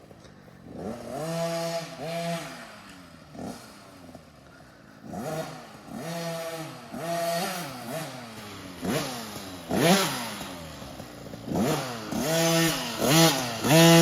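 TC50 50cc two-stroke dirt bike engine revving up and easing off again and again as it is ridden around a track, its pitch climbing and falling about once a second. It gets louder in the second half, loudest near the end as the bike comes close.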